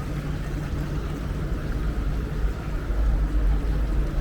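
Steady low engine rumble with a constant hum, growing louder over the last second or so.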